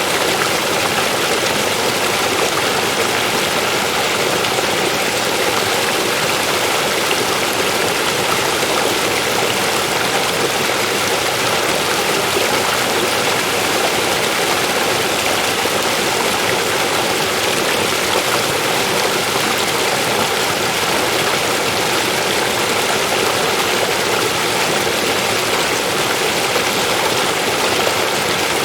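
River water flowing over rocks, a steady, even rushing that does not change.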